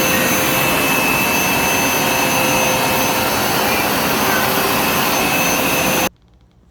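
Hoover Smartwash Pet Complete carpet cleaner running on a rinse pass: a loud, steady suction-motor whine with a hiss. It stops abruptly about six seconds in.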